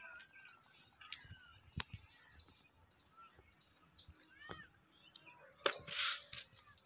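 Small birds chirping and calling now and then in short whistled notes and quick downward chirps, with a few sharp clicks. About six seconds in comes a brief harsh, hissing burst, the loudest sound here.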